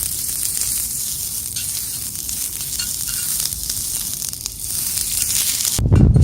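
Hamburger patty sizzling as it fries, a steady hiss with small crackles. Near the end the sizzle cuts off suddenly and a louder low rumble takes over.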